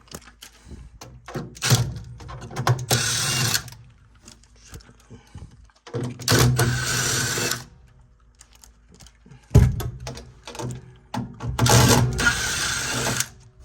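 Cordless drill-driver running in three short bursts of about a second each, with clicks and clatter of metal parts handled between them.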